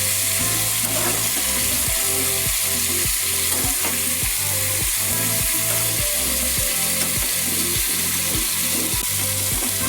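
Chopped cauliflower frying in soybean oil in a kadai, sizzling steadily as it is stirred, at the stage where it is being browned lightly before water is added.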